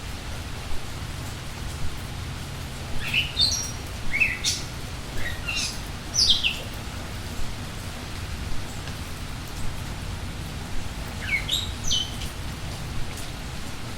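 Steady rain falling, with a bird singing short runs of quick, downward-sweeping chirps, once a few seconds in and again near the end.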